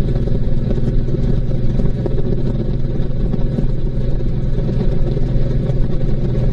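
Honda VTX1800C's big V-twin engine running steadily at road speed, a constant low rumble.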